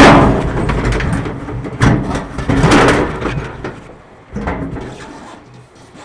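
A spare tire being dropped and worked down into a tub made of wooden shelving in a pickup bed: a loud thump at the start, then scraping and rubbing, with more knocks about two seconds in and again a little past four seconds.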